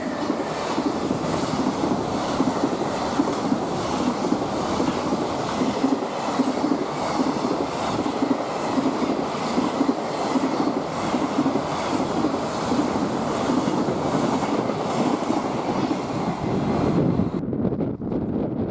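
KiHa 110 series diesel railcar running into the station, its wheels clacking over rail joints in a steady rhythm under a continuous rushing rumble. About a second before the end, the high hiss drops away suddenly.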